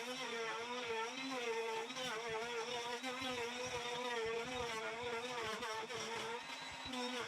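Electric power tool motor running steadily, its pitch dipping and recovering again and again as it is loaded and eased off.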